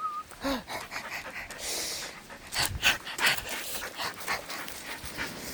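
A dog panting, a run of quick breaths.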